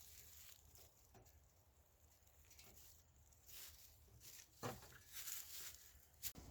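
Near silence, with a few faint scuffs and rustles in the second half.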